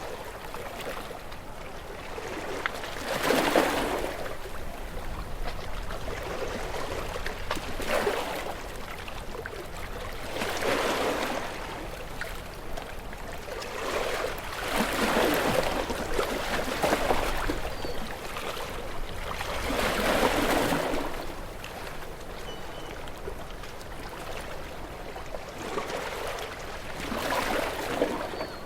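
Ocean waves washing onto the shore, a steady wash of surf that swells and falls back every few seconds as each wave breaks.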